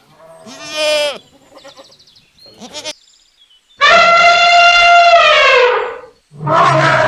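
Animal calls: short, wavering bleats in the first few seconds, then a long, loud call that holds its pitch and falls at the end, and a harsher, rougher call starting near the end.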